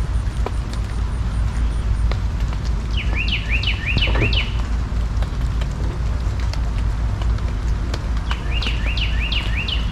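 A small bird singing a quick phrase of five or six repeated sweeping chirps, twice: about three seconds in and again near the end. A steady low rumble runs underneath throughout.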